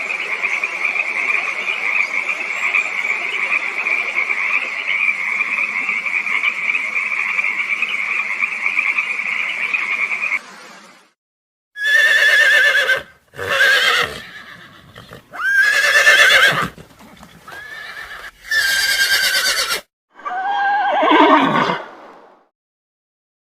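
A steady, high, unbroken sound for about ten seconds, then a horse whinnying five times in quick succession. Each whinny is a wavering call of about a second, and the last one drops steeply in pitch.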